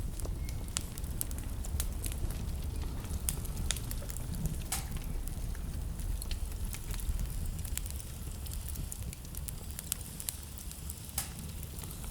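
Wood fire burning in a fireplace: irregular sharp crackles and pops over a low, steady rumble.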